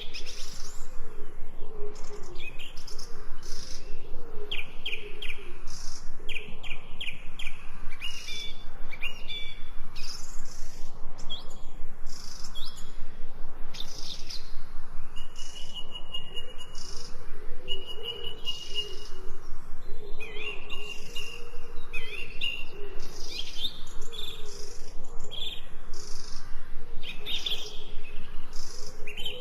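Several songbirds chirping and twittering together in a continuous chorus of quick, high chirps and short trills, with a few longer held high notes partway through.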